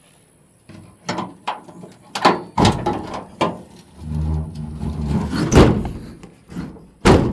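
Knocks and clunks on an old Ford pickup's metal body, with a low creak about four seconds in and a sharp bang near the end.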